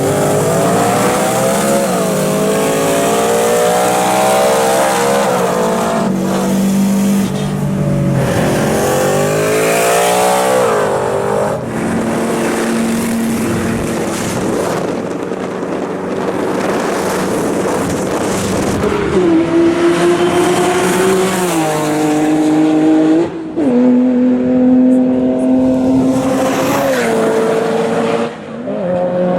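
A car engine at full throttle, its pitch climbing and then dropping sharply at each gear change, several times over.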